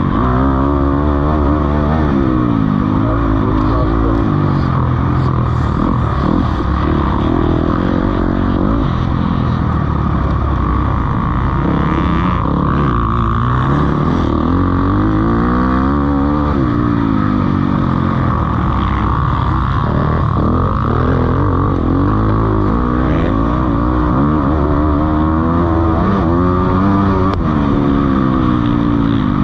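Motocross bikes racing, several engines at once, each revving up and falling back again and again as the riders accelerate, shift and brake around the track.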